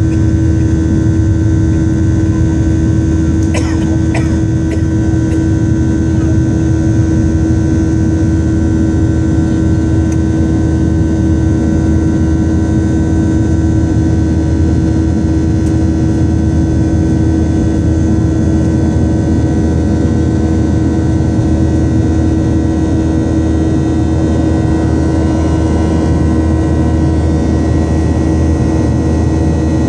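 Steady loud drone of a Boeing 737-900's jet engines and airflow heard inside the cabin, with a constant humming tone running through it. A few light clicks about four seconds in.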